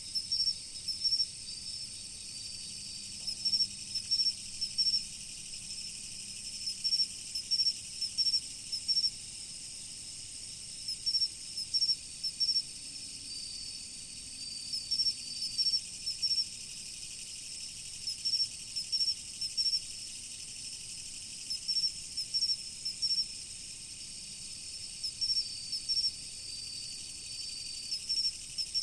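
Autumn insects singing: short, high-pitched chirps in clusters every second or two, over a steady high insect hum.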